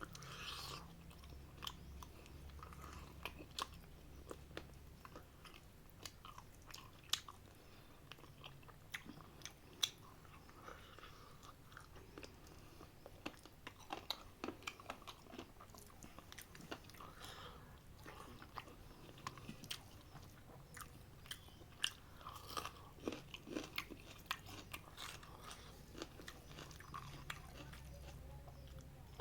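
A person chewing and eating chicken biryani with curry: irregular soft mouth clicks and smacks, with a faint low steady hum beneath.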